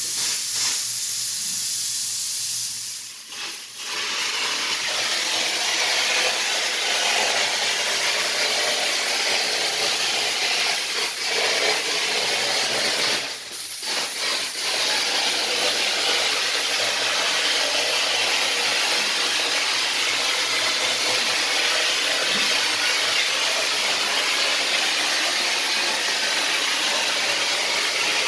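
A steady, loud hiss, like compressed air or a spray jet, that dips briefly about three seconds in and again about thirteen seconds in.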